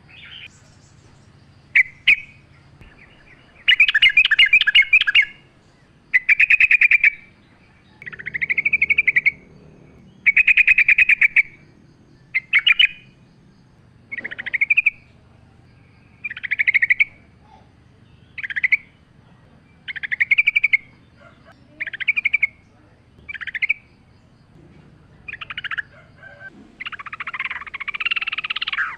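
Yellow-vented bulbul (trucukan) singing: short repeated phrases about every one to two seconds, each a fast run of notes, with a longer, fuller phrase near the end.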